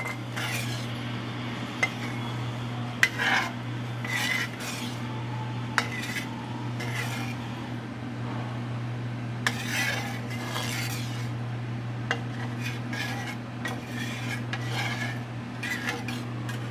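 A utensil stirring Alfredo sauce in a pan, scraping and clinking against the pan in irregular strokes, over a steady low hum.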